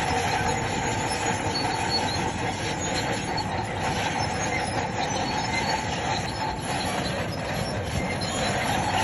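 Crawler bulldozer working, its diesel running under load while its steel tracks squeal and clank steadily.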